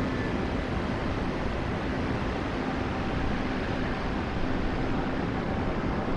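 Taiwan Railway's Ming Ri Hao sightseeing train passing through at track side, a steady rumble of its carriages rolling by with a faint steady hum.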